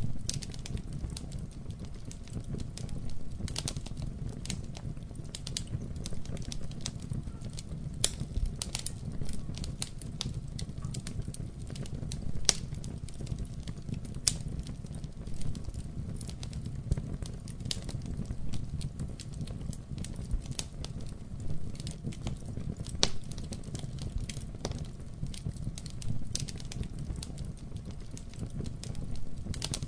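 Wood fire burning in a fireplace: a steady low rumble of the flames with irregular crackles and occasional louder pops.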